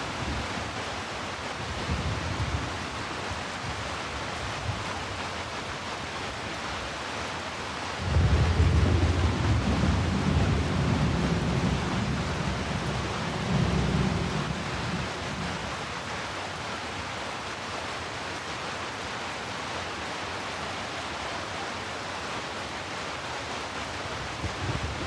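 Steady heavy rain. About a third of the way in, a low rumble of thunder starts suddenly and fades away over several seconds.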